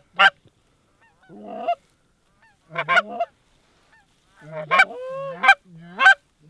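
Goose honking: short, sharp calls in several bunches, about a second and a half in, around three seconds, and a quicker run near the end, each dropping from a high note or breaking between a low and a high note.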